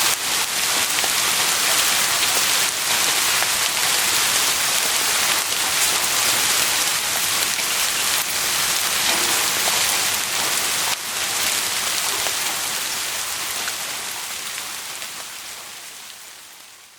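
Heavy rain falling as a dense, steady hiss, fading out gradually over the last few seconds.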